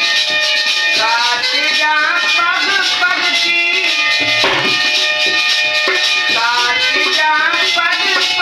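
Instrumental interlude of a Hindi devotional bhajan: a melody plays in two ornamented phrases over sustained held notes, with rattling hand percussion and light drumming underneath.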